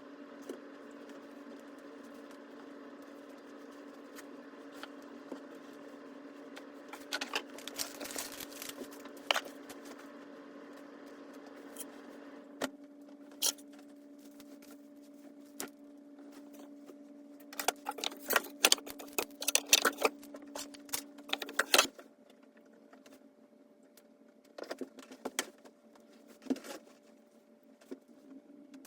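Household items being picked up and put away, rattling and clattering in bouts, over a steady low hum that stops about two-thirds of the way through.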